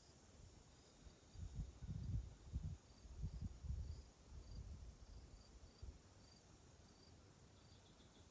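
Faint outdoor insects chirping in short, repeated high notes. From about a second in until about six seconds in, irregular low rumbling gusts rise and fall over them.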